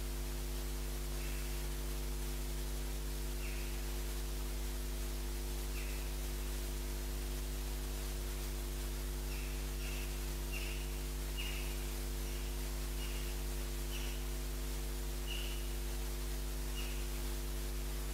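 Short high bird chirps every second or two, coming more often from about halfway through, over a steady low electrical hum.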